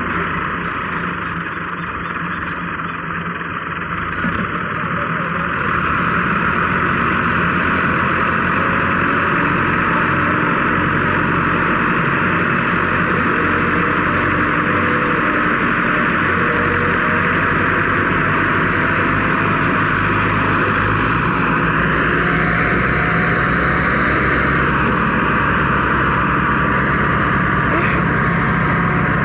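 Tractor diesel engines running steadily, getting louder about six seconds in and holding there.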